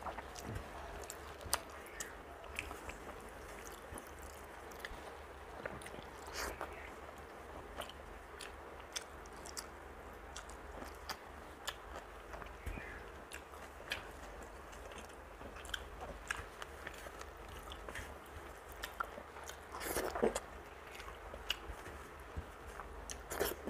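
Close-up chewing and wet mouth sounds of someone eating rice by hand, with fingers gathering the last grains across a steel plate. Many scattered short clicks, with two louder bursts, one most of the way through and one near the end.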